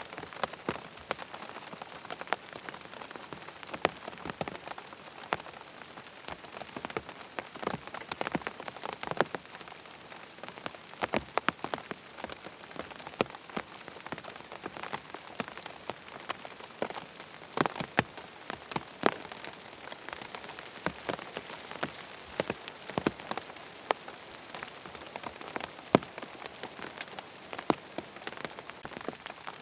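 Steady rain falling, with frequent short, sharp ticks and pops scattered throughout.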